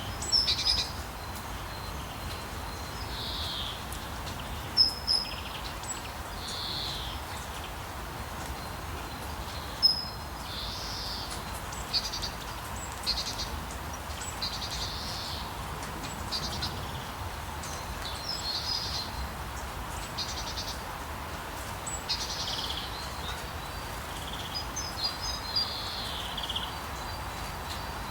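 Rainforest rain ambience: a steady rain hiss with short, high animal calls repeating every second or two, some falling in pitch, and a few sharp louder chirps.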